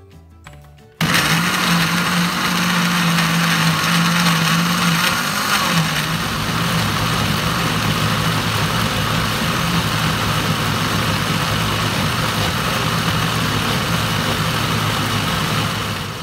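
Countertop electric blender switched on about a second in and running steadily, grinding dried red chillies and shallots into a spice paste. Its motor hum dips a little in pitch about five seconds in.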